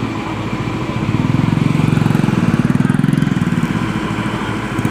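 Small motorcycle engine running with a fast, even beat, revving up about a second in and easing back off a couple of seconds later.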